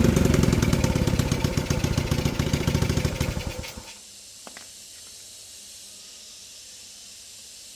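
A small engine running with an even beat of firing pulses, which slow and fade as it is shut off, stopping about four seconds in. Afterwards there is only a faint steady hiss and one light click.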